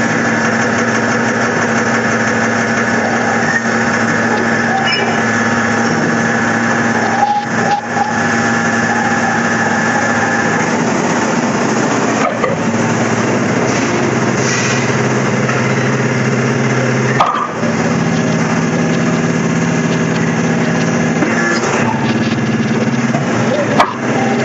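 Hydraulic power unit of a 125-ton scrap metal baler, driven by a 22 kW electric motor, running with a steady hum. Its tones shift every few seconds as the press load changes, with a few short clicks and breaks between stages.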